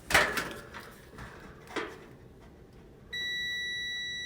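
A multimeter's continuity beeper sounding a steady high beep that starts suddenly about three seconds in as the probes bridge a dryer fuse: the fuse has continuity and is good. Before it, a sharp click and some handling noise from the probes.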